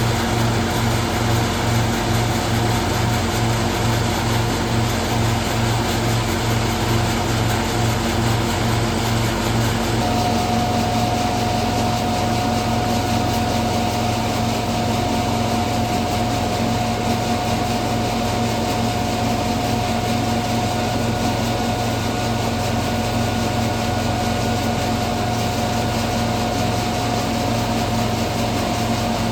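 Engine-driven hazelnut threshing machine (patoz) running steadily under a continuous machine drone. About ten seconds in, the low pulsing hum evens out and a steady whine comes in.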